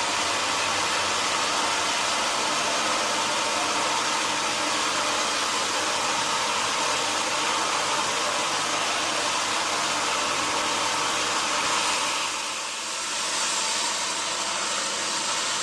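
Sawmill machinery running steadily with a dense, even noise, dipping briefly about twelve seconds in.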